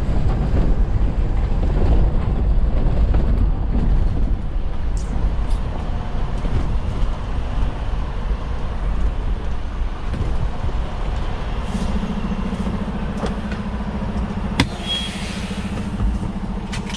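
Semi-truck engine and road rumble heard from inside the cab, heavy and low. About two-thirds of the way through, a steady low hum sets in, and a single sharp click comes a few seconds later.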